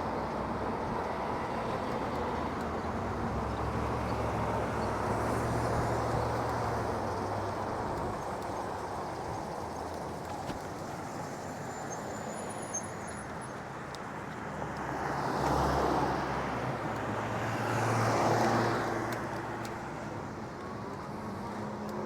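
Road traffic heard from a moving e-bike: a steady rush of wind and road noise, with two vehicles swelling past, about fifteen and eighteen seconds in.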